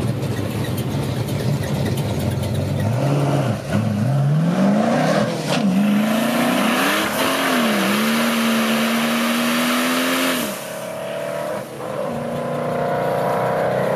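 Mercedes-Benz S65 AMG's twin-turbo V12 revving through a burnout. The engine runs low at first, then climbs sharply a few seconds in. It swings up and down and is held high for a couple of seconds while the spinning rear tyres hiss. It drops off about ten seconds in, then builds again near the end.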